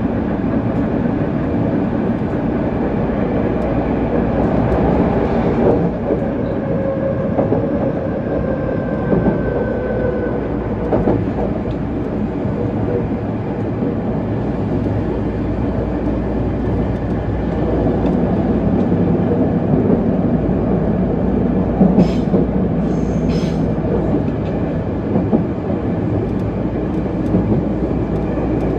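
JR West 207 series electric train running along the line: a steady rumble of wheels on rail. A faint whine lasts a few seconds about a quarter of the way in, and two sharp clicks come near the end.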